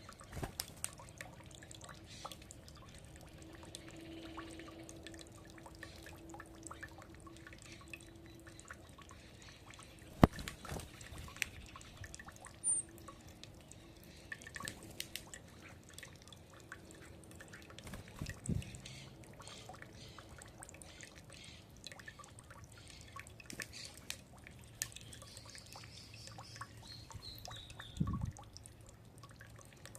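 Birds feeding: irregular small pecking taps and clicks, one sharper knock about ten seconds in. A brief falling bird whistle comes through about 25 seconds in.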